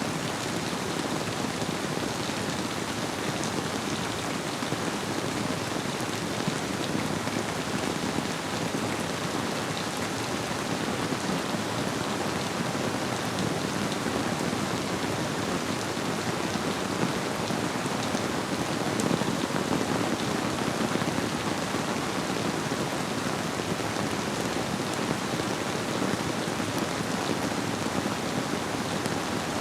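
Steady rainfall: an even wash of many small drop impacts that never lets up or changes.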